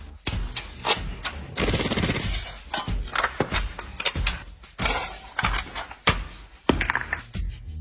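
Irregular sharp knocks and clicks in quick succession, with a longer hissing burst about two seconds in.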